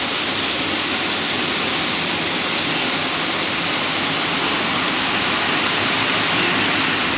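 Model train running on the layout's track close to the microphone: a steady rushing noise from the wheels and motor, with no change in level.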